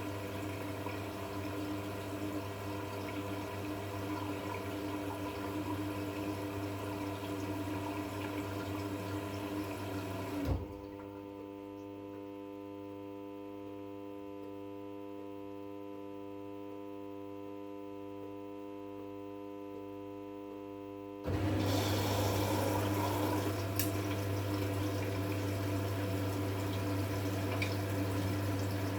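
V-Zug Unimatic SL washing machine taking in water: water rushing in with a steady mains-like hum. About ten seconds in the water cuts off with a click, leaving a quieter steady hum, and the rushing water and hum start again suddenly about eleven seconds later.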